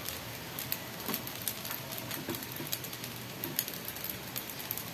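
Food sizzling in a hot pan: a steady frying hiss with irregular crackles and pops.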